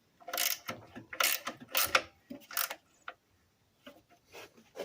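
Irregular metallic clinks and scrapes of a wrench being worked against an exhaust bolt in a tight spot, about eight short clanks spread over a few seconds.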